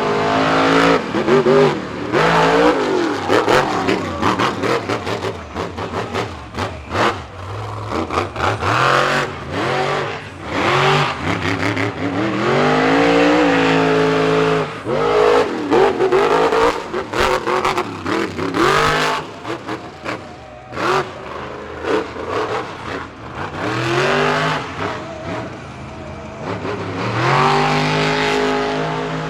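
Monster truck engine revving hard, its pitch repeatedly climbing and dropping, with scattered sharp bangs.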